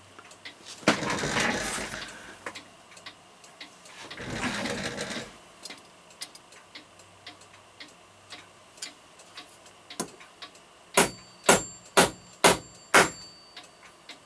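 A little hammer striking a staking punch five times, about two blows a second, each with a metallic ring, driving a 3 mm brass bushing into the hole in a clock plate. Before that, faint light ticking and two brief scuffs of tools being handled.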